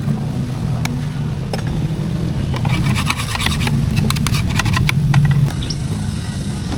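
An engine running steadily, with a cluster of sharp metallic clicks and scraping rattles from about two and a half to five seconds in.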